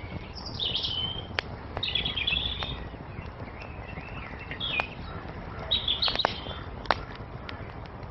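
Songbirds chirping in short, high, twittering phrases, four or five of them, over a wood fire crackling with a few sharp pops and a low steady hiss.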